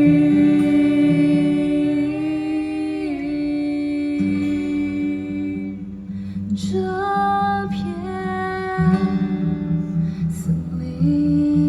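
Live band performing a slow song: a voice holds long, wordless notes over guitar and low sustained chords, with a few shorter notes in the middle.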